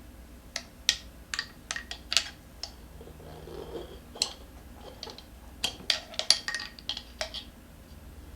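Irregular run of sharp clicks and clinks from metal tools and the wheel being handled while a scooter tire is worked onto its rim, in two clusters with a pause around the middle.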